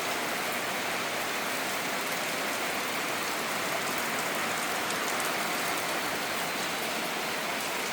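Heavy rain falling outside, a steady even hiss.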